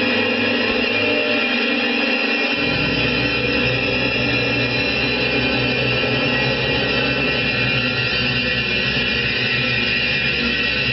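A steady, dense droning soundtrack of many held tones, with a deeper low rumble joining about two and a half seconds in.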